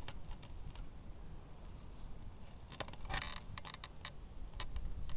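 Wind rumbling on the microphone, with scattered light clicks and rustling from handling, and a short burst of rustling about three seconds in.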